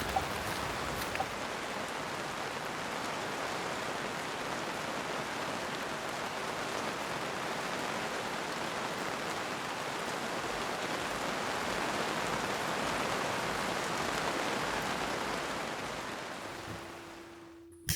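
Steady heavy rain, a dense even hiss with a few drop ticks near the start, fading out over the last couple of seconds.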